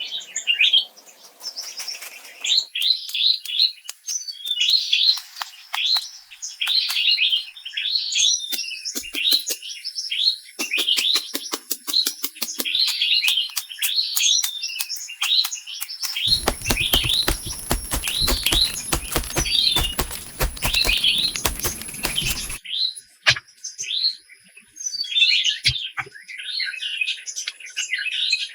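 Small songbirds chirping and twittering in quick repeated notes throughout. Sharp clicks run through the middle, thickening a little past halfway into about six seconds of dense crackling noise that stops abruptly.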